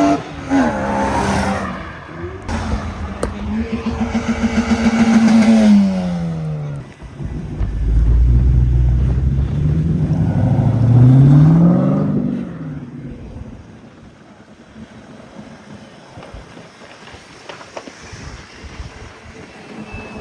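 Car engines revving and accelerating. A held, pulsing rev falls away about six seconds in. A deep rumble follows, then an engine note rises sharply about ten seconds in before fading into quieter background after about twelve seconds.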